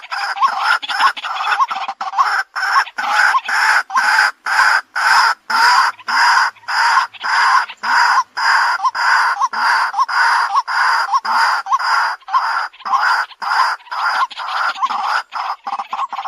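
White-breasted waterhen calling: a continuous run of short, harsh, repeated notes, about two to three a second.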